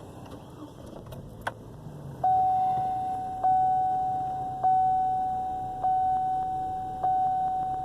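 A single click, then the truck's dashboard warning chime dinging steadily, re-struck about every second and a quarter, as the key is turned to restart the stalled engine.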